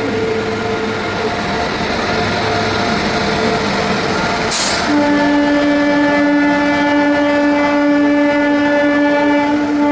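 Indian Railways express train running past at speed, a steady rumble of its coaches on the track. Just before halfway there is a brief hiss, then a long, steady locomotive horn blast starts and holds through the rest.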